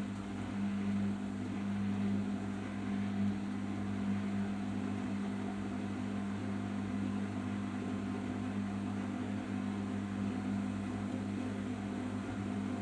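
Arçelik 5083 front-loading washing machine running in the final rinse and spin of its cotton 60°C program: a steady, constant low hum with no change in speed.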